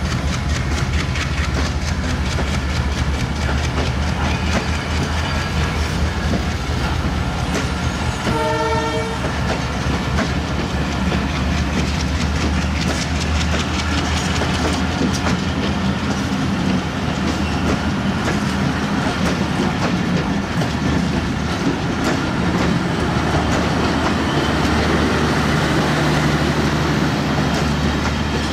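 Passenger coaches of a broad-gauge express train passing close by, wheels clattering over rail joints in a fast rhythm over a steady rumble. A short horn note sounds about eight seconds in.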